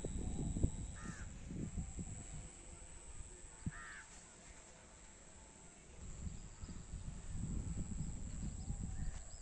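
Crows cawing: three single caws spaced a few seconds apart, the last near the end. Under them runs a low rumbling noise, strongest at the start and again in the second half.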